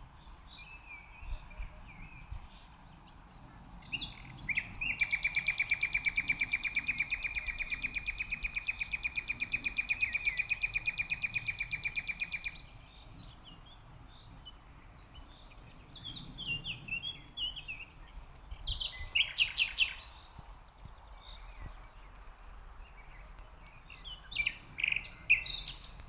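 Wild songbirds singing. A rapid, evenly pulsed high trill runs for about eight seconds, starting a few seconds in. Shorter chirping phrases follow later, with a loud burst of notes near the end.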